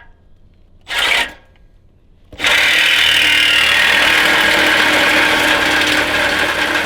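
Reciprocating saw cutting through a steel exhaust pipe: a short burst about a second in, then a steady cut lasting about five seconds.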